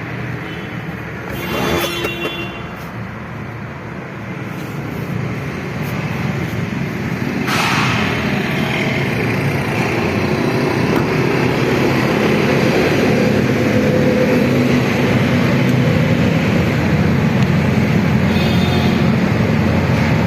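Motor vehicle engine and road noise, growing steadily louder through the first half and then holding. Two brief higher-pitched sounds stand out over it, one near the start and one about a third of the way in.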